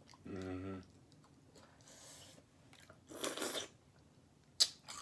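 A person chewing and biting pizza close to the microphone. There is a short hummed voice sound about half a second in, a louder noisy burst a little past the middle, and a sharp mouth click near the end.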